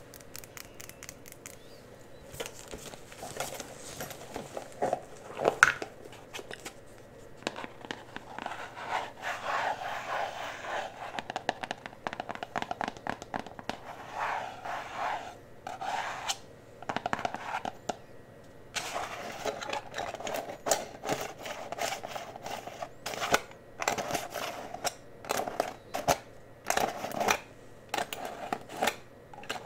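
Close-miked ASMR sounds of cosmetic products and brushes being handled and applied: steady scratching and rubbing, broken by many short taps and clicks, with one sharper click about six seconds in.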